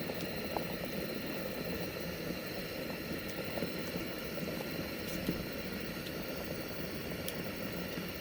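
A pot of kharcho soup bubbling at a boil over a campfire, a steady bubbling noise with a few sharp clicks.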